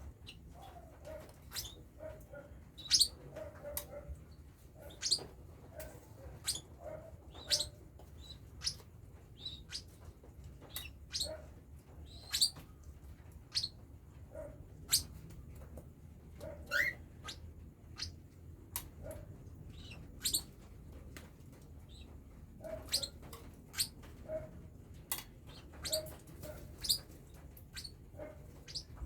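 Cockatiel chicks chirping: many short, sharp high calls at irregular intervals, with softer short low notes in between.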